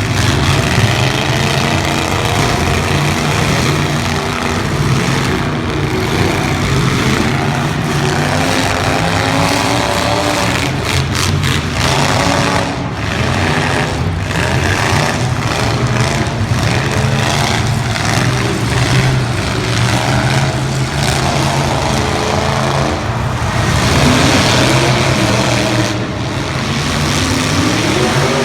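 Several demolition derby cars' engines running and revving together, loud throughout, with a quick cluster of sharp knocks about eleven seconds in.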